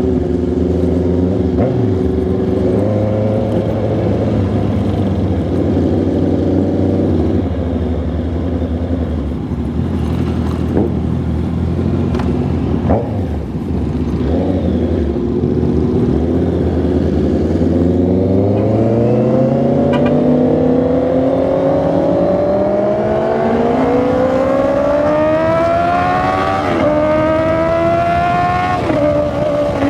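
Honda CB650R inline-four engine and exhaust under way, holding a steady pitch at first, then revving up steadily through the second half with a brief dip before a sudden drop in revs near the end.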